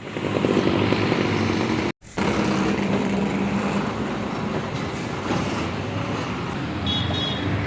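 Truck engine running amid road traffic noise, steady apart from a brief sudden cut about two seconds in.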